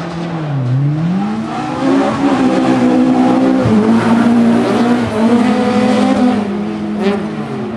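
Volvo rally car's engine at high revs on a gravel stage, the pitch dropping and climbing again through a gear change about a second in, then held high as it accelerates past.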